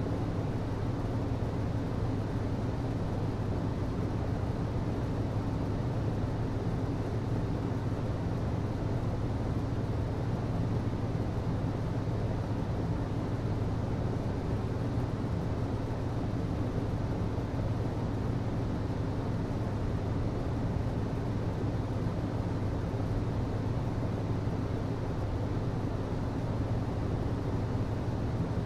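HVAC system running: a steady low hum over an even rushing noise, unchanging throughout.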